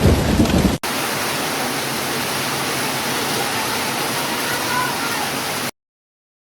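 Heavy rain with a low rumble, which cuts off abruptly under a second in. It gives way to a steady, even hiss of falling water with little low end. That hiss stops dead about a second before the end, leaving silence.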